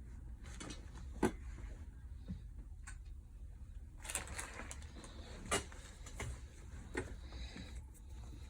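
Scattered small clicks and taps of repair tools and a phone being handled on a work surface, about five spread over several seconds, the loudest about a second in, over a low steady hum.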